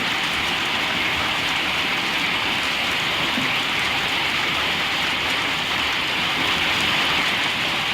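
Heavy rain pouring steadily: a dense, even hiss with no break.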